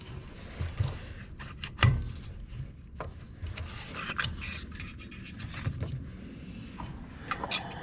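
Hands working on a tractor headlight's bulb and fittings: scattered clicks, knocks and scraping of parts being handled, with a sharper knock about two seconds in.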